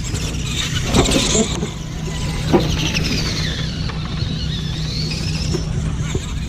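Electric motors of radio-controlled scale monster trucks whining, the pitch falling and then rising with the throttle, with two sharp knocks about a second and two and a half seconds in, over a steady low hum.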